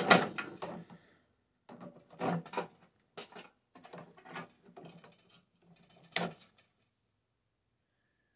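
Parts of a microwave being handled and pulled apart by hand: a run of metal knocks, clicks and rattles, the loudest right at the start and another sharp knock about six seconds in, then it goes quiet.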